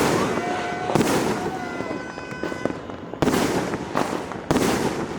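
Many fireworks and firecrackers going off at once: four loud bangs about a second or so apart over continuous crackling, with whistling fireworks sliding up and down in pitch.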